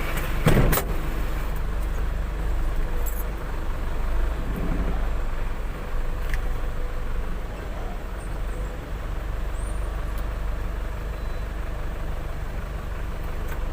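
Truck engine running steadily, with a brief loud burst about half a second in.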